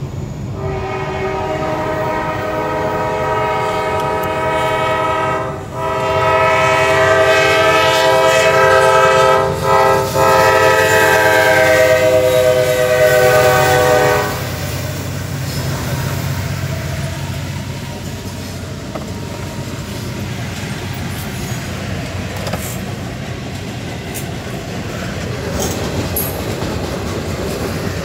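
Norfolk Southern freight locomotive's multi-chime air horn sounding a chord in long, long, short, long blasts, the standard grade-crossing signal, over the low rumble of the train. After about 14 seconds the horn stops and the freight cars roll past with steady rumbling and clickety-clack of wheels over rail joints.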